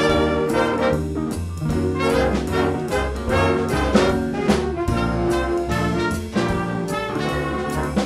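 Jazz band music: trumpets, trombones and saxophones playing over a steady drum beat.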